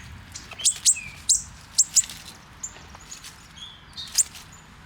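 A small baby bird chirping: short, sharp, high peeps, a cluster in the first two seconds and another near the end, over a low rumble.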